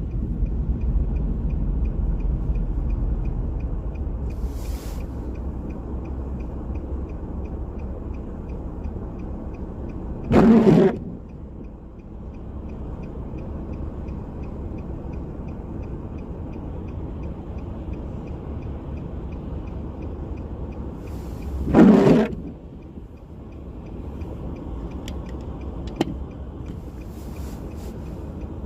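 Car driving through rain: a steady low engine and road rumble, with two short louder swishes about eleven seconds apart.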